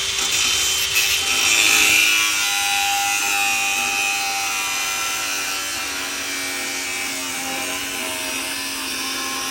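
Handheld power tool running under load on the broken steel plow, a steady grinding hiss with a whining motor tone, cutting off abruptly near the end.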